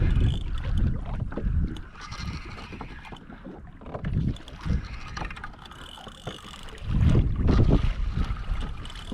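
Wind buffeting the microphone in gusts on a kayak at sea, loudest at the start and again about seven seconds in, with water sloshing against the hull.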